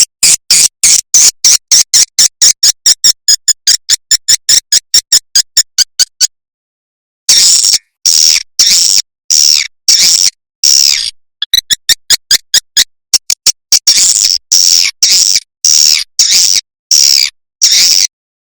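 Recorded swiftlet calls played as a lure track: rapid, high-pitched chirps about six a second, a pause of about a second, then longer chirps about two a second.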